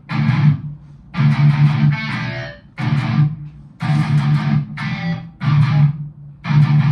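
Heavily distorted electric guitar through a Line 6 Spider IV amp, with the distortion mostly from an overdrive pedal, playing a very bassy metal breakdown riff: short chugged chords in bursts, about one a second, each cut off sharply.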